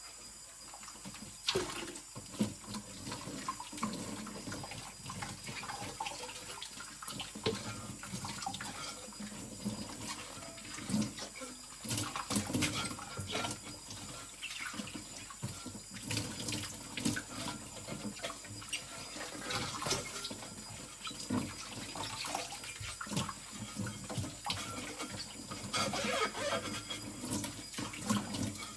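Kitchen tap running into a sink while stainless steel pots and a skillet are rinsed under it, with frequent scattered clanks and knocks of the pans.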